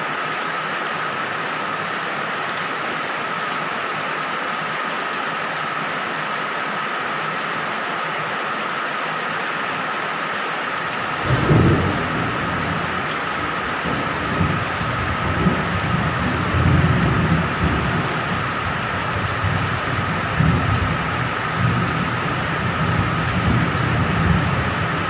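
Steady heavy rain. About eleven seconds in, a thunderclap breaks out low and sudden, and then thunder rumbles on in rolling swells.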